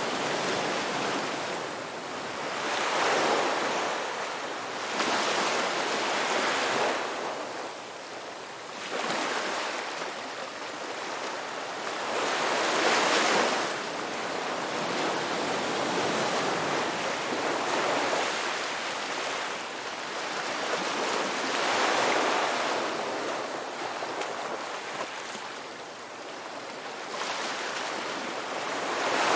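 Sea waves breaking and washing on a shore, the surf swelling and falling back every few seconds.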